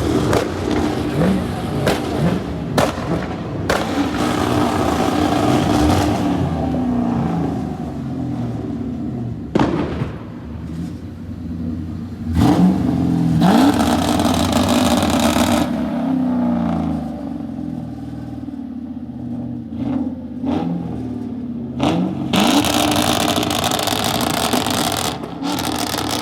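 Car engine revved over and over, each rev rising and falling in pitch, with a few sharp cracks in between.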